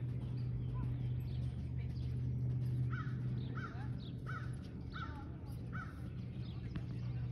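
A bird gives a run of about five short, matching calls, roughly two-thirds of a second apart, a few seconds in, with fainter chirps from other birds, over a steady low hum.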